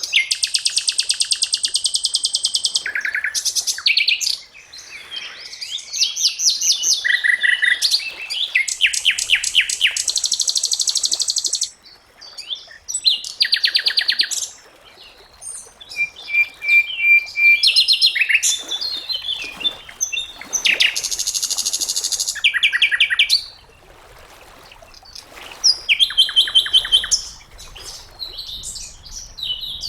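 Sikatan londo flycatcher singing a varied song: long, rapid trills of repeated high notes, broken by short chirps and brief pauses.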